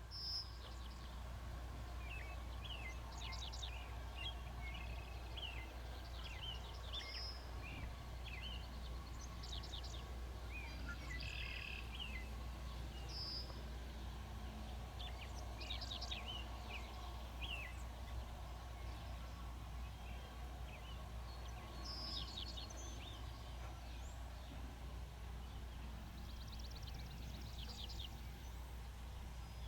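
Small birds chirping and calling on and off throughout, short high calls coming every second or so, over a steady low rumble.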